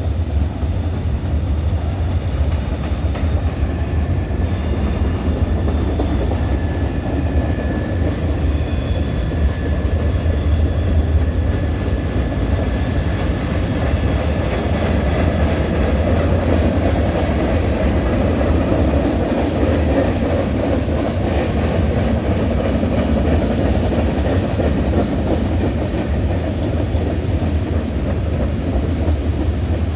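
Freight cars of a long manifest train rolling past steadily: a continuous rumble of steel wheels on rail with some clickety-clack. Thin, high wheel squeals ring over it for about the first ten seconds.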